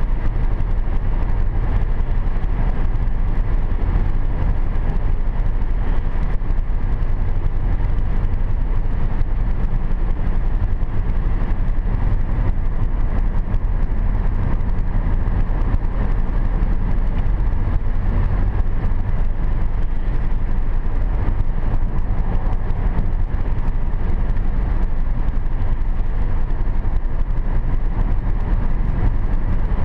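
Steady car road noise from inside the cabin while cruising at about 80 km/h on a wet road: an even tyre and engine rumble, heaviest in the low end.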